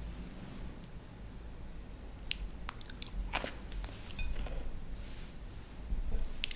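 Raw crunchy vegetables being bitten and chewed close to the microphone: wet chewing broken by a few sharp crisp crunches, the loudest about three seconds in and again near the end, over a low steady hum.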